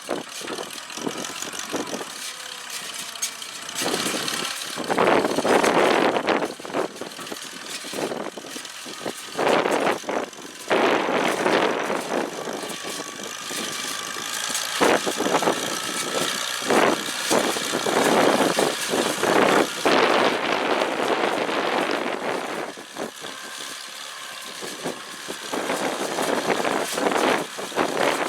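McCormick-Deering No. 50-AW pickup baler running while baling hay, driven by its 1952 International Harvester Cub four-cylinder engine, with a noisy, uneven mechanical clatter that swells and fades.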